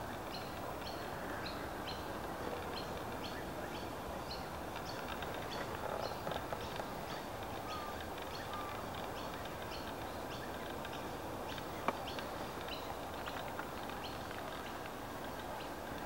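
Birds chirping: many short high notes repeating over a steady background hiss, with one sharp click about three-quarters of the way through.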